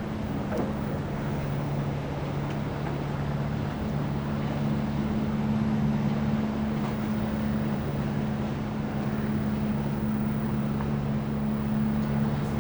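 A boat's engine running steadily, a constant two-tone hum under wind and water noise.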